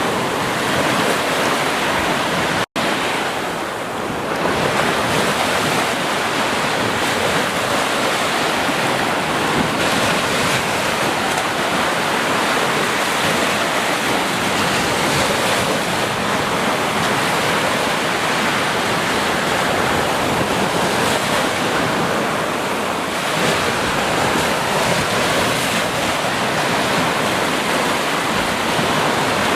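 Ocean surf on a beach: waves breaking and washing in, a continuous rushing noise that swells and eases slowly. A split-second dropout to silence comes about three seconds in.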